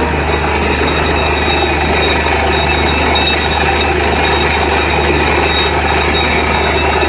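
Borewell drilling rig running: a steady, loud engine drone under a continuous mechanical rattle and clatter.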